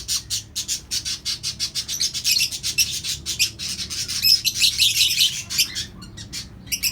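A colony of caged lovebirds and other small parrots chirping, with many rapid, overlapping high chirps and a brief lull near the end.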